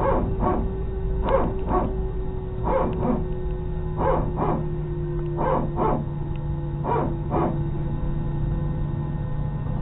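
A dog barking in pairs of short barks, six pairs about a second and a half apart, stopping near the end. Under it runs a steady airliner cabin drone with two constant hums.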